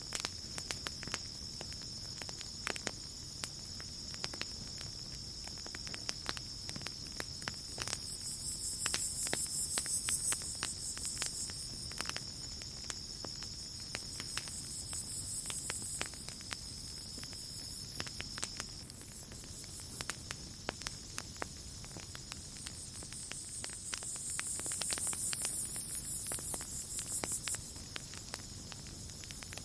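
Campfire crackling with scattered sharp pops over a night chorus of crickets: a steady high trill that stops about two-thirds of the way through, and a higher, louder insect chorus that swells up twice.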